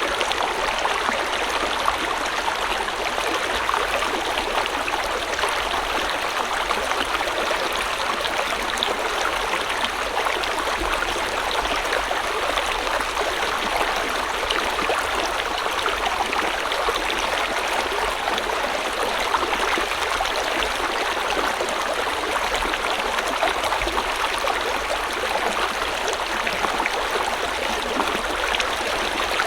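River or stream water flowing steadily, a continuous rushing and gurgling that stays even throughout.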